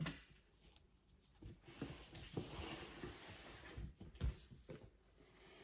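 Quiet handling of books: a soft rustle of paper and covers for a couple of seconds, with a few light knocks as books are set down and picked up.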